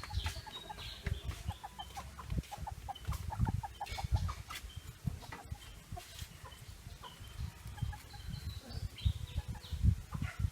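Short animal calls in quick runs, over low knocks and bumps.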